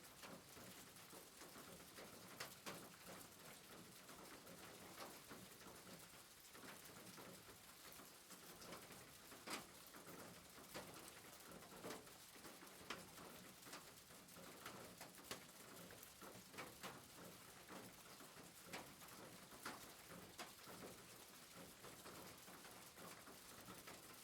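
Soft rain, faint: a steady hiss with scattered sharp ticks of drops.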